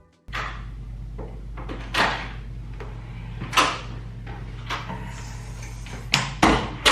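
A series of about seven sharp clunks and knocks, spread unevenly, over a steady low hum.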